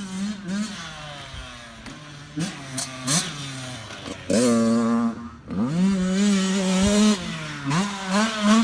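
Dirt bike engine revving as it is ridden round a track. The pitch climbs and drops sharply again and again through gear changes and throttle lifts, and is loudest about halfway through.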